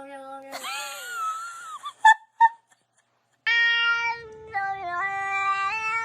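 A cat meowing: a drawn-out meow, a harsher sliding yowl, then two short sharp chirps. After a second's silence, a melody of long held notes that step from pitch to pitch plays.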